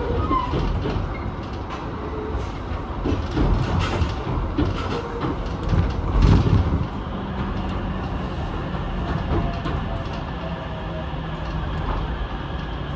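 Ichibata Electric Railway 7000 series electric train running, heard from inside the car: the wheels clack over rail joints and points through the first half, then settle into a steadier rumble with a faint motor hum.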